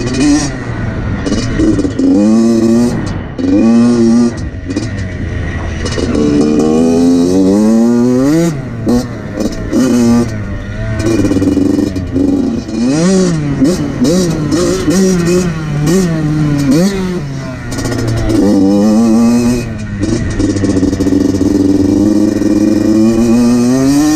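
A 2014 Yamaha YZ85's two-stroke single-cylinder engine being ridden hard: the revs climb and fall again and again as the throttle is opened and shut and the gears change.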